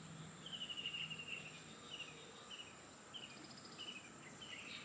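A small bird calling: a short trill about half a second in, then a string of brief, slightly falling chirps every half second or so, faint over a steady background of insects.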